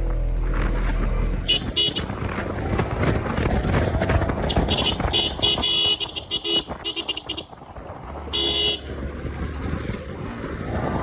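Motor traffic running, with a vehicle horn honking in short blasts: two quick toots a couple of seconds in, a rapid string of toots in the middle, and one longer blast near the end.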